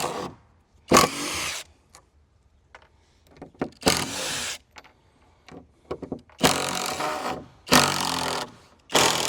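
Power drill running in about five short bursts of half a second to a second each, with pauses between, backing screws out of wooden deck boards.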